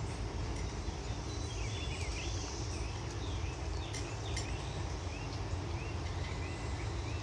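Outdoor ambience: a steady high insect drone with short, repeated bird chirps scattered through it, over a low rumble.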